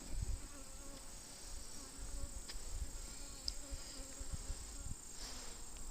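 Honey bees buzzing around an open hive during a frame inspection, a steady hum with a constant high-pitched whine underneath and scattered low bumps from handling.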